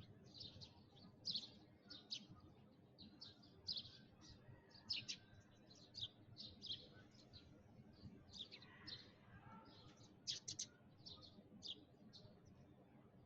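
Sparrows chirping: short, high chirps coming quickly and irregularly, several a second, with no pause.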